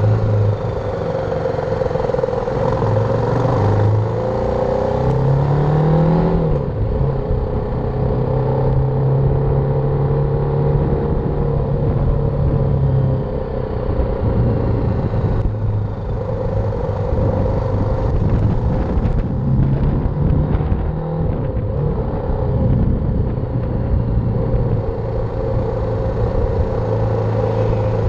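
BMW G310R's single-cylinder engine running under way, its pitch stepping up and down with the throttle and rising about five seconds in, over steady riding noise.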